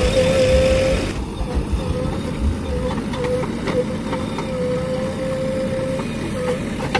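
Diesel engine of a JCB 3DX backhoe loader running steadily, with a steady whine.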